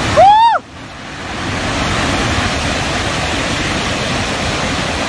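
Loud, steady rush of fast-flowing floodwater. About half a second in, a person gives one short, high cry of dismay.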